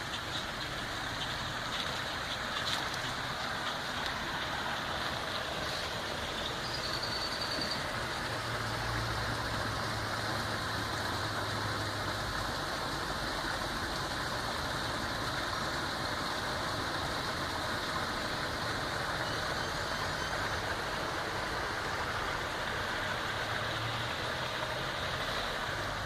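River water rushing steadily, with a brief high whistle about seven seconds in.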